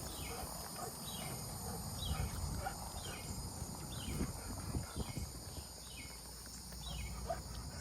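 Outdoor evening animal sounds: a steady high insect trill, with a short call sliding downward repeated about once a second over it.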